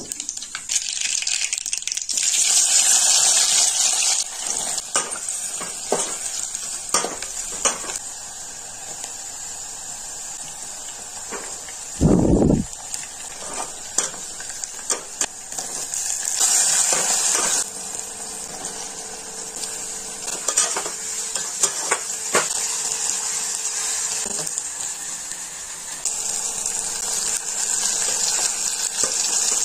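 Oil sizzling in a metal pot as spices and then sliced onions fry, with a metal spatula scraping and clacking against the pot while the contents are stirred. A brief dull thump about twelve seconds in.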